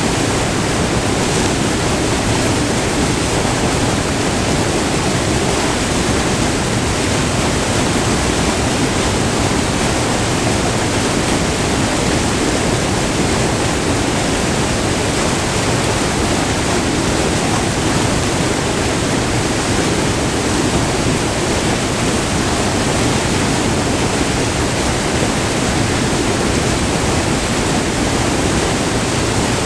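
Water of a short, multi-tiered river waterfall rushing over rock in a loud, steady roar of white water, heard up close, without a break.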